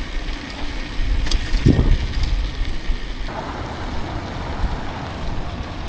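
Downhill mountain bike rolling at speed, its tyres rumbling over the ground under steady wind noise on the action camera's microphone, with a single thump about two seconds in.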